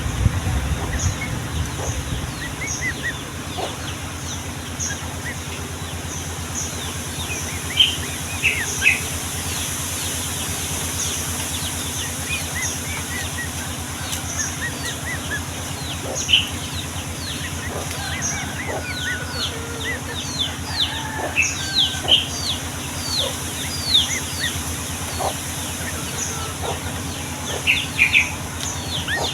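Yellow-vented bulbuls (trucukan) chirping and calling in a busy run of short, quickly falling notes that come thicker in the second half, over a steady low hum and hiss.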